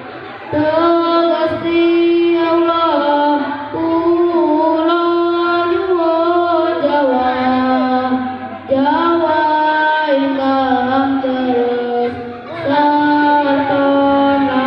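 Chanted Islamic prayer for rain: a high voice sings long, drawn-out melodic phrases with ornamented pitch turns, pausing briefly about half a second in, again around the middle and once more near the end.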